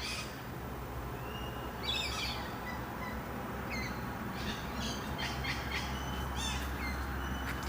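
Birds chirping and calling in short clusters of sharp chirps and brief whistled notes, about two seconds in and again through the middle and later part, over a steady low rumble.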